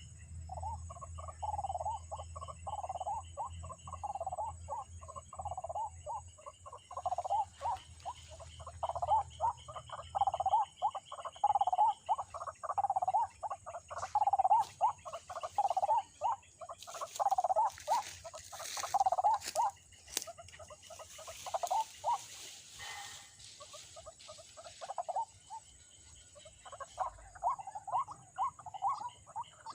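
White-breasted waterhen calls: a rapid, rhythmic croaking 'ruak-ruak' repeated about once a second, with a fainter, higher chattering series above it. The calling thins out partway through, where a few sharp clicks and rustles are heard, and then picks up again near the end.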